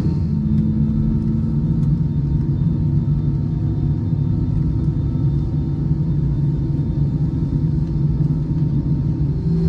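Airbus A320 cabin noise: its CFM56 engines and airflow heard from inside the cabin as a steady low rumble.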